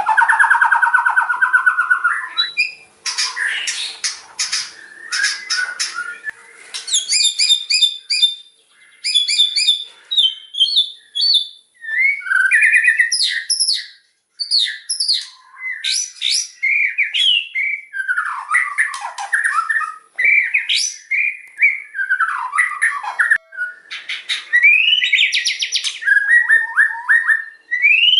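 White-rumped shama (murai batu) singing loudly: a varied, unbroken run of clear whistled phrases, fast trills and rapid chattering notes, one after another with only short pauses.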